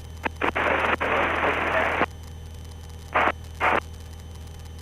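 Aircraft headset intercom hiss cutting in and out in bursts, one long stretch and several short blips, as the voice-activated squelch opens and closes. A low steady hum from the engine runs beneath.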